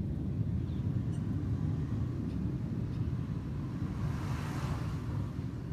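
Low, steady rumble of distant fighter jets after takeoff, with a brief swell of hiss about four seconds in.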